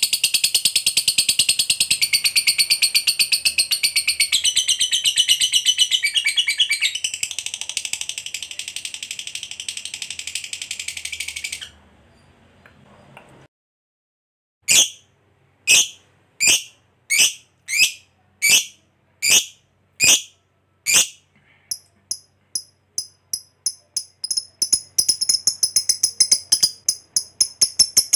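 Lovebird's ngekek: a long, rapid, high chattering trill that breaks off about twelve seconds in. After a short gap come about nine single sharp calls, roughly two-thirds of a second apart. Then fast repeated chirps build back into a rapid trill near the end.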